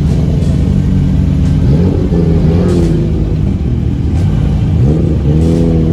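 Car engine and exhaust running low and steady, with the revs rising twice, just before two seconds in and again about five seconds in, each time holding at the higher pitch.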